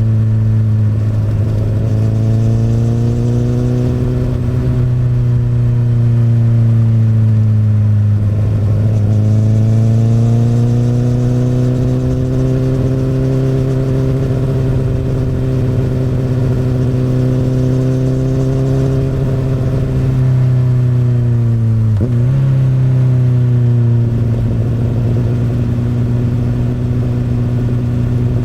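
Akrapovic exhaust of a 2008 Honda CBR1000RR (SC59) inline-four sportbike under way. The engine note rises and falls gently with the throttle, with two brief dips in pitch, about 8 seconds in and again near 22 seconds, like gear changes.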